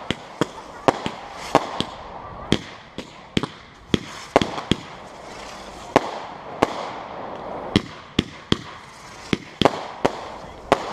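Fireworks going off: an irregular run of sharp bangs and cracks, about two a second, some louder than others, over a steady background hiss.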